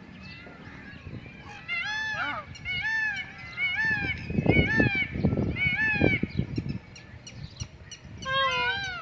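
Indian peafowl calling: a run of five or six loud, honking calls, each rising then falling, about one a second, then one more call near the end. Wind buffets the microphone with a low rumble in the middle of the run.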